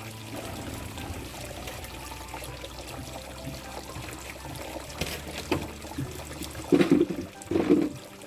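Liquid trickling and pouring steadily, with two brief louder sounds near the end.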